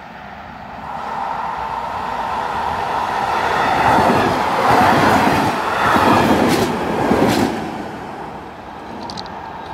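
Passenger train passing close at speed: a rush of wheels on rails that swells as it approaches, is loudest from about four to seven and a half seconds in with several sharp clacks, then fades as the train moves away.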